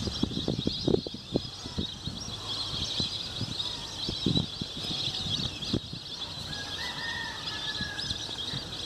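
Many small birds chirping in a dense, continuous high chorus, with scattered low knocks and bumps throughout.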